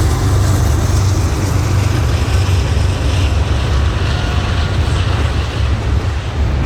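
Norfolk Southern freight train passing close by: a loud, steady low rumble of the train rolling along the track.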